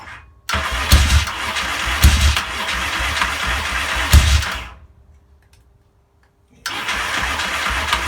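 Yamaha XS650 parallel twin turning over on its electric starter without firing, with a heavy low beat about once a second. The cranking stops about halfway through and starts again after a pause of about two seconds. The owner suspects a fault inside the engine, since the kickstart gives him no compression strokes.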